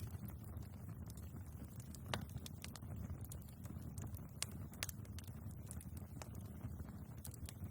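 Wood fire burning in a fireplace: scattered sharp crackles and pops of the logs over a steady low rumble of the flames, with louder pops about two seconds in and a little past four seconds.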